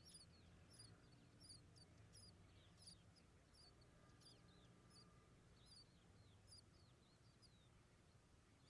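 Faint, high, thin cheeping from newborn bird chicks in the nest: short falling notes repeated about twice a second.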